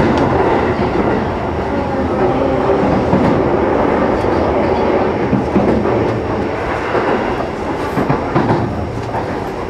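Sanyo Electric Railway 6000 series electric train running along the line, heard inside a trailer car: a steady rumble of wheels on the rails with scattered clicks from the track.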